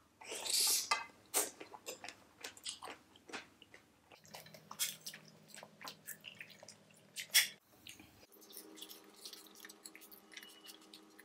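Close-miked eating sounds of fruit jelly cake: a spoonful taken in, then wet chewing of the soft jelly and fruit, with many small smacks and clicks and a sharper click about seven seconds in.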